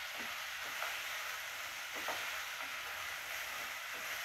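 Vegetables sizzling as they sauté in ghee in a pressure cooker, with a wooden spatula stirring and scraping through them a few times.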